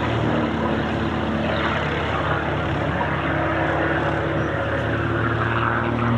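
Propeller aircraft's engine running with a steady drone.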